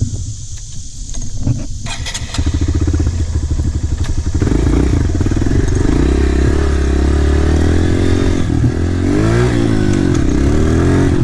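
Dirt bike engine being restarted after a stall: it catches about two seconds in and runs with an even beat. It then picks up, louder, and the revs rise and fall near the end.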